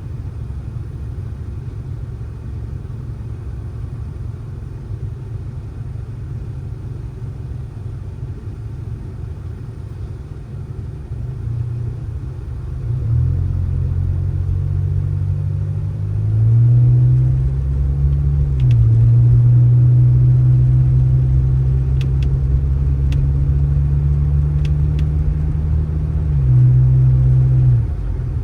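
A vehicle engine running at a low steady level, then getting louder about halfway through as its revs step up twice. It holds at the higher speed and drops back near the end.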